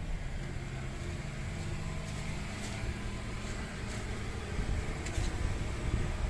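2014 Nissan Sentra's four-cylinder engine idling with a steady low hum, growing a little louder near the end.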